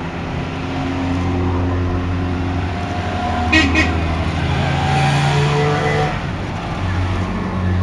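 Goggomobil microcars and vans with small air-cooled two-stroke twin engines running as they drive slowly past. A short horn toot sounds about three and a half seconds in.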